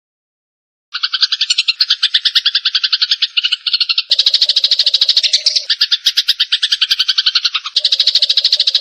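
Eurasian tree sparrows' harsh fighting chatter: a fast, unbroken run of chirps, many a second. It starts about a second in after a brief silence and changes character abruptly a few times, as in a spliced looped recording.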